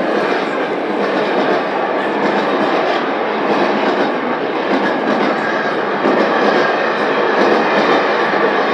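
Recorded sound of a train running, played as part of a dance performance's soundtrack: a steady, loud, dense noise with no clear rhythm or tone.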